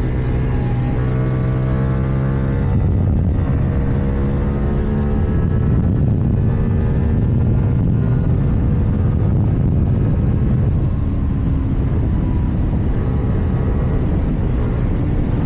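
KTM Duke 790 parallel-twin engine with an Akrapovič exhaust running while riding, its pitch rising and falling with the throttle.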